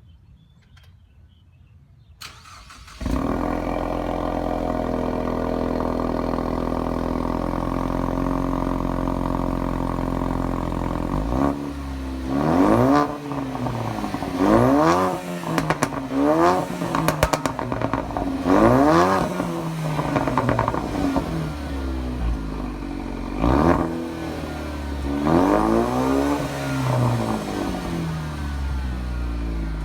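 Ford Mustang EcoBoost's turbocharged 2.3-litre four-cylinder heard through a Ford Performance/Borla sport catback quad exhaust: it starts about three seconds in and idles steadily. From about eleven seconds it is revved in a series of short blips, each rising and falling back, settling to idle between them.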